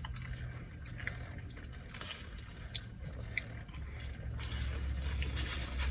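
Quiet eating and food-handling noises: a few small clicks, over a steady low hum that grows a little louder after about four seconds.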